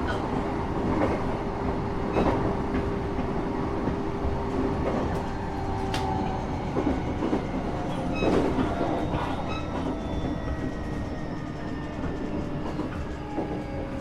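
Running noise inside a train carriage: a steady rumble of wheels on the track with a steady low hum, broken by a few sharp clicks and knocks, about 2, 6 and 8 seconds in.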